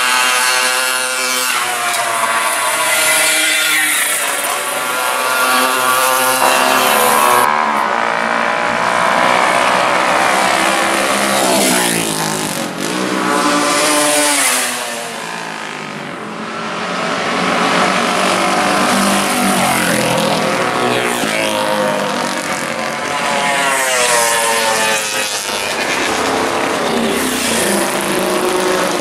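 Classic racing motorcycle engine running hard, its pitch climbing and dropping again and again through the gears. It goes quieter for a couple of seconds about halfway through.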